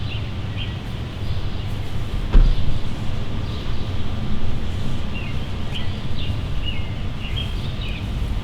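Outdoor ambience: a steady low rumble with small birds chirping, the chirps clustering near the start and again about six to seven seconds in, and a single knock about two and a half seconds in.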